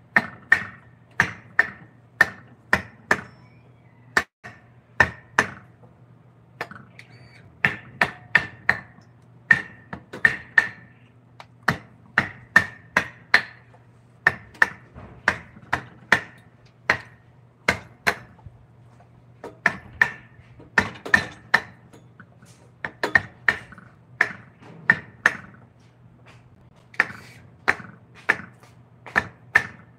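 Mallet striking a wood-carving chisel: sharp knocks about half a second apart, in runs of several with brief pauses between, each with a short ring. A steady low hum runs underneath.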